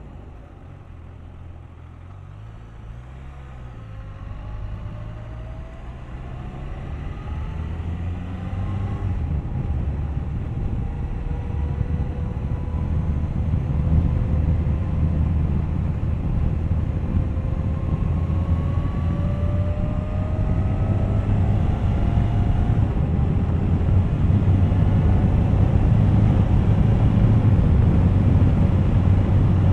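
Suzuki GSX1250FA's inline-four engine pulling away and accelerating. Its note climbs several times in long rising sweeps as it works up through the gears, while engine and wind noise grow steadily louder as speed builds.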